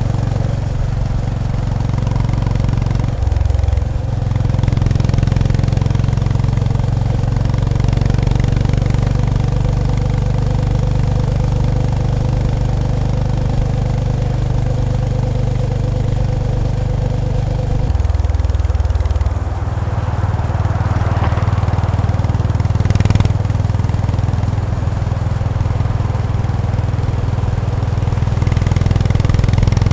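Honda GB350S single-cylinder engine and exhaust running at low revs while riding, a steady low thump. The engine note changes briefly about three seconds in and again around eighteen seconds in. There is a short sharp click a little after twenty seconds.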